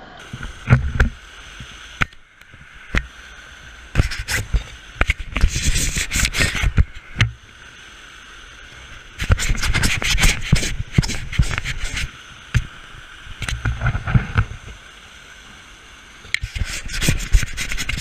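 Steady rush of creek water, broken by irregular bursts of crackling, rubbing noise on the microphone, several seconds each, with sharp clicks.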